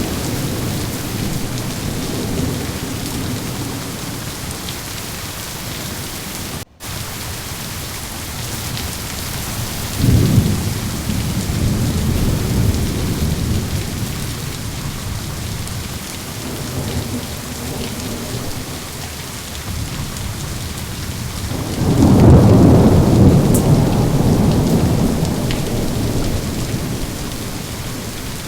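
Steady rain with rolling thunder: a low rumble about a third of the way in, then a louder, longer rumble about three quarters through that slowly fades. The sound cuts out for an instant about a quarter of the way in.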